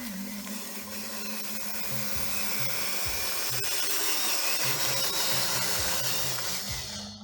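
Small electric motor whirring steadily at high speed, over background music.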